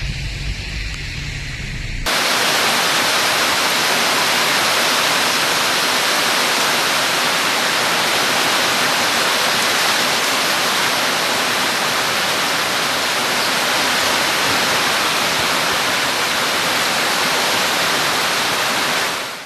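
A loud, steady rush of water, typical of a torrential downpour or floodwater, starting abruptly about two seconds in after a low rumble.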